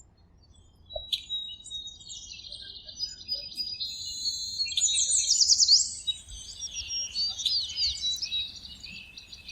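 Several songbirds chirping and singing together in a dense chorus of high, rapid trills and quick falling whistles, loudest about four to six seconds in.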